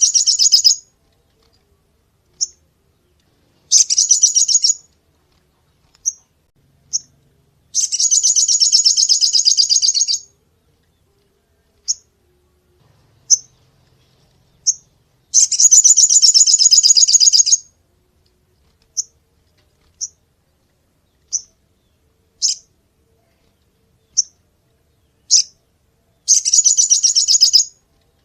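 A sogon (crimson sunbird) singing: bursts of rapid, very high trilling lasting one to two and a half seconds, four of them, with single short sharp chips scattered between.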